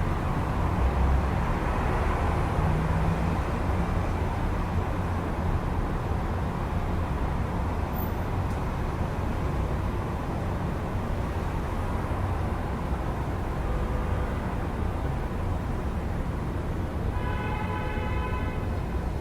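Steady city street traffic at night heard through an open window: a continuous low rumble and hiss of passing vehicles. Near the end a held pitched tone with several overtones comes in over it.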